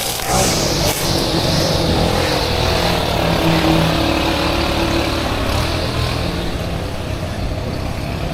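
An engine running steadily with a low hum, mixed with rushing air noise, louder in the first couple of seconds.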